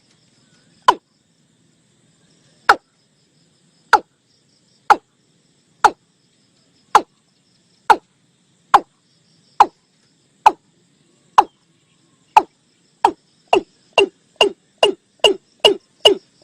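Watercock call played back as a lure: a series of short, falling notes, about one a second at first, speeding up to two or three a second over the last few seconds.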